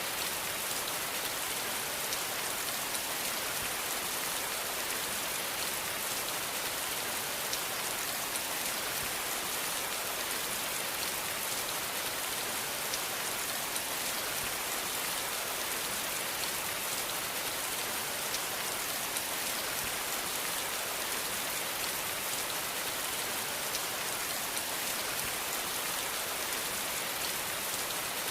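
Steady rain falling: an even hiss, brightest in the high end, made of many small drop ticks, with no rise, fall or thunder.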